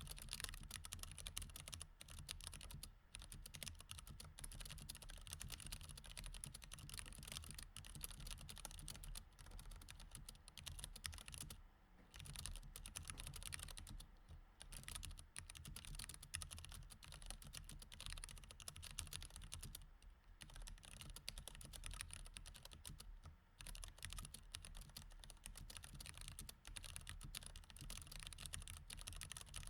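Mechanical keyboard with Cherry MX Red switches being typed on quickly and continuously, a rapid patter of key strokes broken by a few short pauses. Faint.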